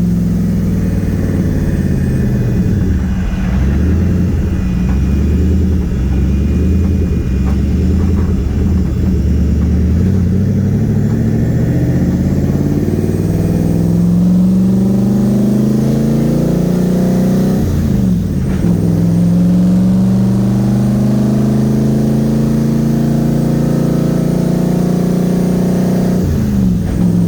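Twin-turbo 5.6-litre VK56 V8 of a swapped Nissan 300ZX running under way, heard from inside the car. The engine note drops early on, climbs steadily, then falls sharply and picks up again twice, about two-thirds of the way through and near the end, as the car changes gear.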